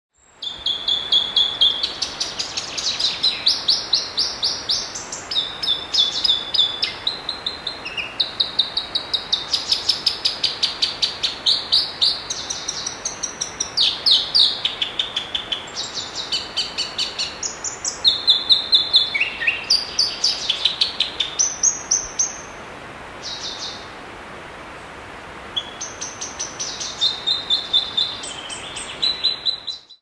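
Bird calling: fast runs of repeated high chirps, about five a second, each run pitched differently from the last, over a faint steady hiss. The calling pauses for about three seconds roughly two-thirds of the way in, then resumes.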